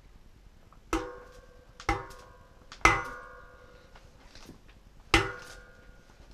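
Four sharp metal-on-metal hammer blows, each ringing briefly, spaced about a second apart and then a longer gap before the last. Typical of tapping a 6804 cartridge bearing in or out of a bicycle hub.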